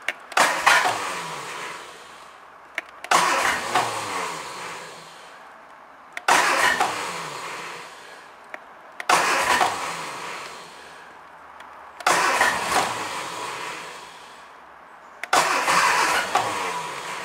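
Triumph Dolomite 1300 engine being cranked on the starter with a little choke, in six short bursts about three seconds apart. Each burst starts suddenly and winds down with falling pitch, and the engine does not keep running on this first start.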